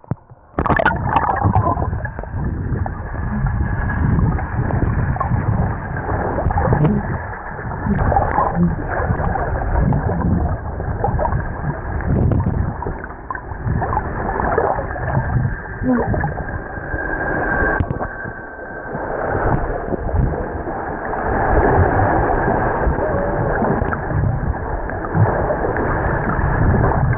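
Muffled sloshing and gurgling of sea water around swimmers, with no clear high sounds.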